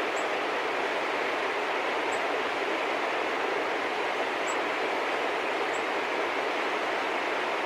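A steady rushing noise throughout, with a small bird's short high chirps sounding five times over it.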